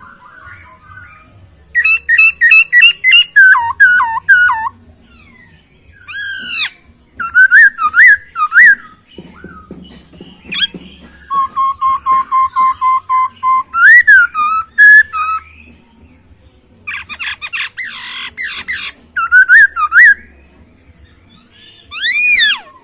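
A Poksay Hongkong (Chinese hwamei) sings loudly in bursts of clear whistled phrases. The phrases are fast runs of repeated notes and slurred swooping whistles, with short pauses between bursts. About halfway through comes a steady run of lower, evenly spaced notes.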